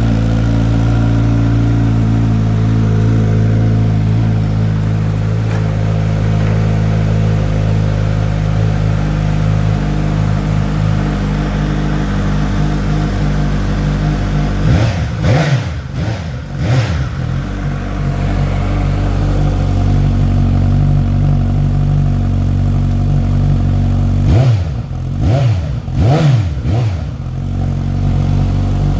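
2021 Suzuki GSX-S 1000 inline-four with an IXIL RB aftermarket exhaust, idling steadily. It is blipped through two sets of quick throttle revs, about three in each, about halfway through and again near the end, dropping back to idle each time.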